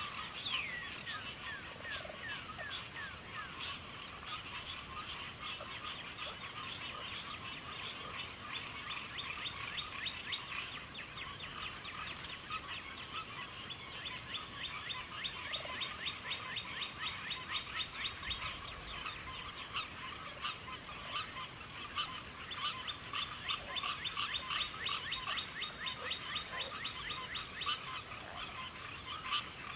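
Evening chorus of crickets: a steady, unbroken high trill. Lower, rapid series of short chirps from other callers rise and fade over it, with one falling call near the start.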